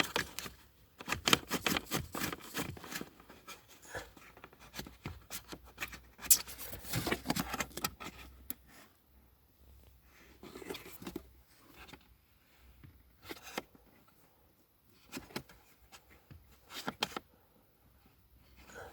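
Irregular clicks, taps and scrapes from hands working on car parts. They are busiest in the first eight seconds, with one sharper click about six seconds in, then come in short scattered clusters.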